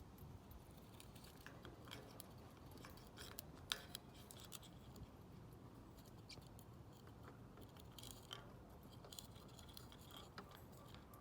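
Faint, irregular clicks and scrapes of a parrotlet's beak chewing and rubbing on a yucca chew toy, with one sharper click about four seconds in.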